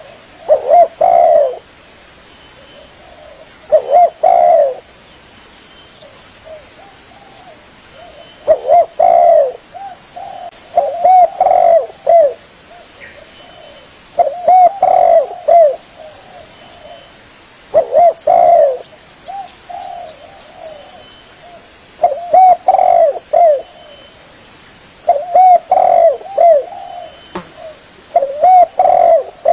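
Spotted dove (tekukur) cooing: short phrases of several arched, mellow coos repeated every three to four seconds.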